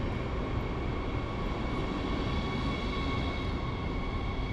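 Passenger train moving through a station: a steady rumble with several steady high whining tones over it.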